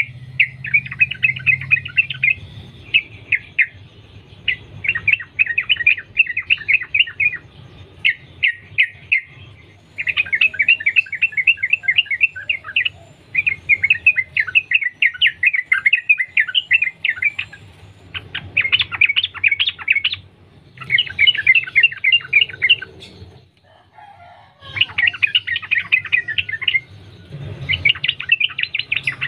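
Yellow-vented bulbul (trucukan) singing a fast, run-on chattering song, the continuous 'sambung ropel' style, in repeated bursts of one to three seconds with short pauses between them.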